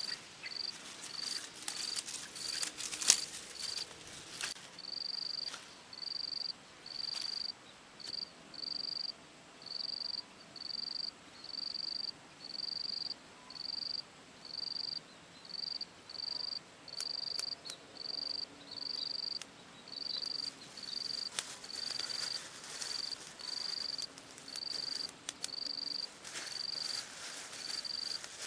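An insect chirping in a steady rhythm, one short high-pitched chirp a little more than once a second, with scattered small clicks and one sharp tap about three seconds in.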